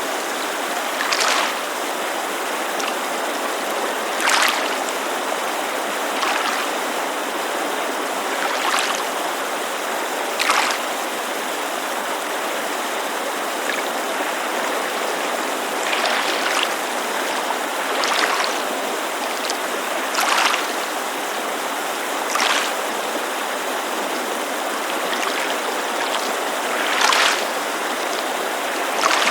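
Steady rushing of a creek, with small waves lapping against a lakeshore in short splashes every couple of seconds.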